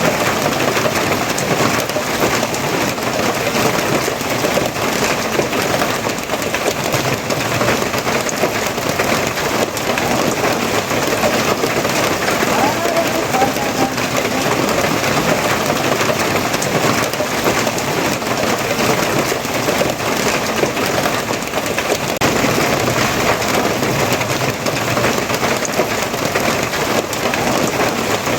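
Steady rain falling, an even dense hiss of drops with no let-up.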